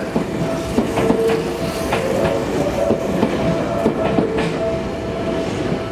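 A Yokohama Minatomirai Railway Y500-series electric train running past at a station platform as it pulls out, its wheels clicking over the rail joints with a steady whine underneath.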